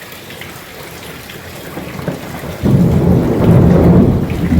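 Rain falling steadily, then about two and a half seconds in a loud low rumble of thunder breaks in and lasts about two seconds.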